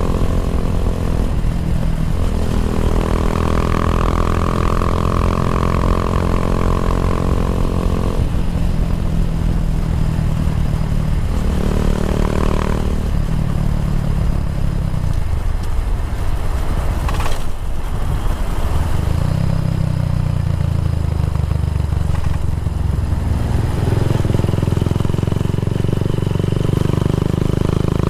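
Kawasaki W175's single-cylinder four-stroke engine running through an aftermarket racing exhaust, its note shifting several times. A single sharp click comes partway through.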